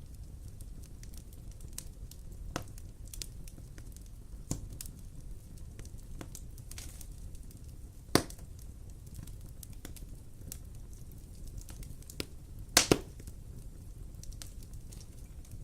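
Wood fire crackling in a fireplace: a low steady rumble with scattered snaps, a sharp pop about halfway through and a louder double pop near the end.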